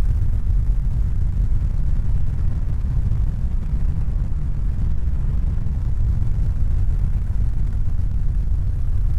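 A steady, deep rumbling noise with no distinct tones.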